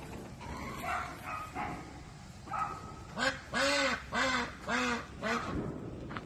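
An animal calling four times in quick succession, each call rising and falling in pitch, with fainter higher calls before it.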